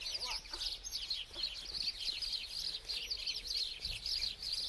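Small birds chirping continuously: many short, high, overlapping chirps, each falling quickly in pitch.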